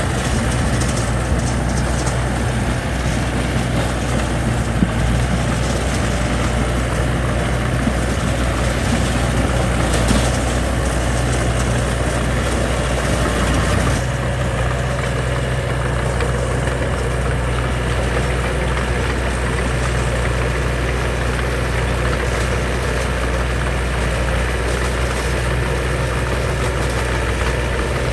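Heavy diesel engine of earthmoving construction machinery running steadily with a low drone, with a couple of brief clanks about five and ten seconds in.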